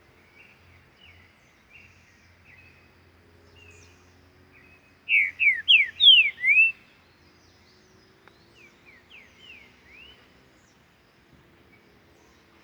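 Green-winged saltator (trinca-ferro) singing: a loud phrase of about six quick whistled notes, each sliding sharply in pitch, about five seconds in, then a fainter run of four or five similar notes a few seconds later. Soft short chirps sound in between.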